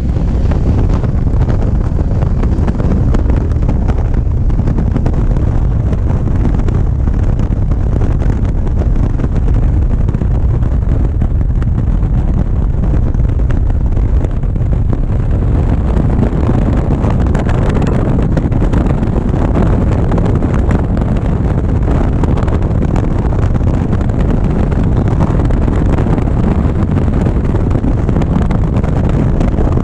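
Wind rushing over a GoPro's microphone on a moving motorcycle: a steady, loud low rumble, with the motorcycle running underneath it.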